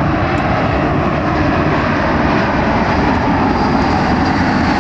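Jet airliner engines running loud and steady, with a faint high whine coming in during the second half.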